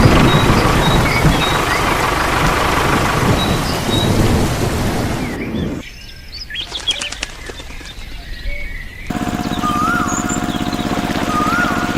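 Birds chirping over a loud, steady mechanical noise. The sound cuts abruptly twice: to a quieter stretch of chirps and clicks, then about nine seconds in to a steady pulsing hum with repeated rising-and-falling chirps.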